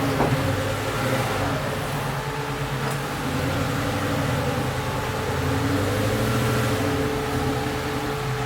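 1967 Ford Mustang's engine running steadily at low speed as the car is driven slowly up the ramp onto a car trailer.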